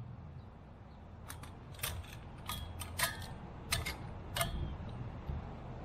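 About seven sharp metallic clicks and clinks spread over a few seconds, some ringing briefly, from cut exhaust pipe pieces being handled and set against each other. A low steady hum runs underneath.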